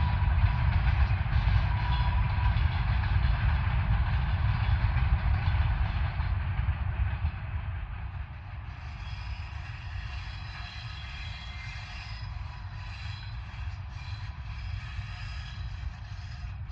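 Freight train running past with a low, heavy rumble, growing quieter about halfway through as it moves away, leaving fainter high tones over the rumble.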